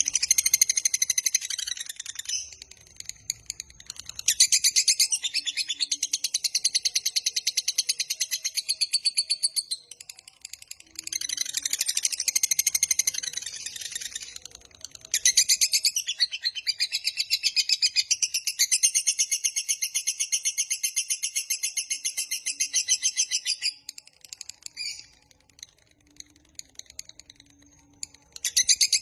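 Lovebird's long, rapid chattering song (the 'ngekek panjang'), high-pitched and fast-pulsed, in four long bouts of several seconds each with short pauses between. Only faint short calls follow in the last few seconds.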